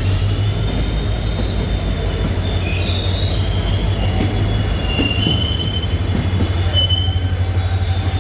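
Passenger train pulling into the station: wheels squealing in several high, shifting tones over a steady heavy rumble.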